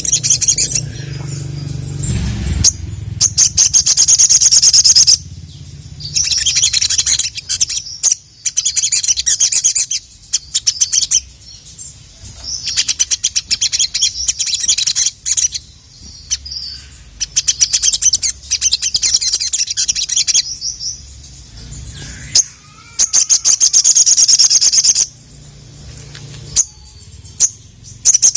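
Sogok ontong (sogon), the little spiderhunter, singing in full song: bouts of rapid, high, chattering trills lasting one to three seconds each, repeated with short pauses. This is the loud song keepers use to call males.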